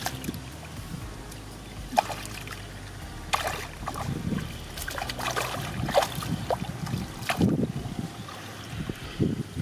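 Water splashing and sloshing in irregular bursts, with a steady low rumble underneath.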